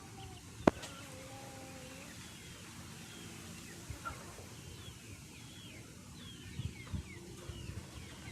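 Birds chirping outdoors in many short, high, falling notes, with a few lower held calls. A single sharp click sounds just under a second in.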